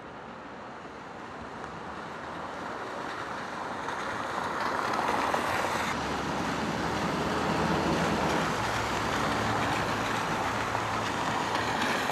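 Road traffic on a rain-soaked street: tyres hissing on the wet road and growing louder through the first half as a vehicle approaches. A low engine hum joins about halfway through.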